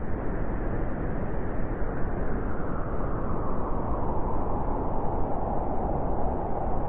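Blizzard wind blowing steadily with a deep rumble, its howl growing stronger in the second half.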